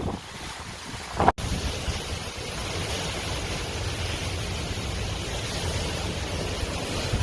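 Hurricane-force wind and crashing surf blending into one steady rush, with wind buffeting the microphone. The sound drops out briefly a little over a second in, then the rush carries on evenly.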